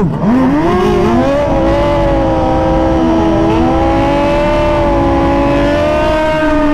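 Suzuki GSX-R 1000 sport bike's inline-four engine: a rev drops away at the start, then the engine runs at a steady speed with a slight waver in pitch.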